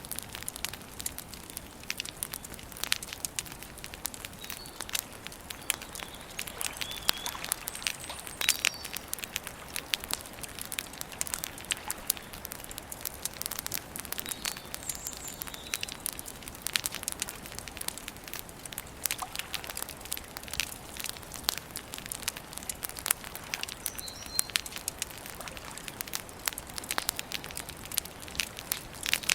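Wood campfire burning and crackling steadily, with frequent irregular sharp pops and snaps.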